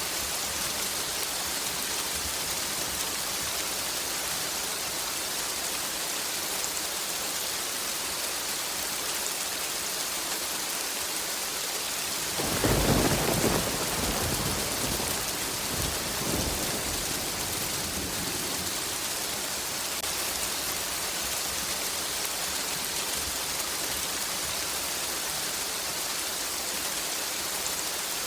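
Steady rain hissing throughout, with a sudden thunderclap about halfway through that rumbles on for several seconds, swelling once more before it dies away.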